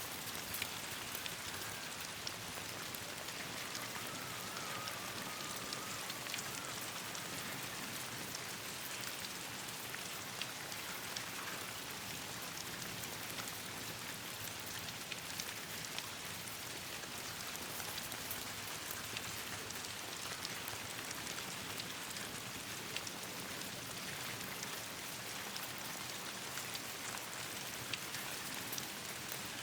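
Steady rain falling on leaves, an even hiss with scattered sharp ticks of drops throughout.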